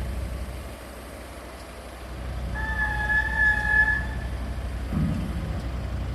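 Steady low engine rumble from the arriving cable car ferry, with a long two-pitch electronic warning tone sounding once for about a second and a half near the middle, and a dull thump near the end.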